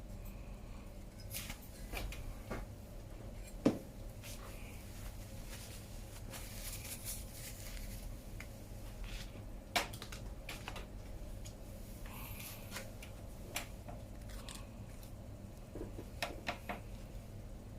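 Faint, irregular clicks and light rattles of small metal bicycle parts and tools being handled, with two sharper clicks about four and ten seconds in.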